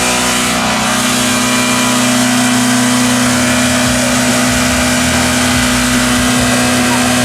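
Car engine held at a constant high rev during a burnout, its note not changing, over a dense hiss of spinning tyres.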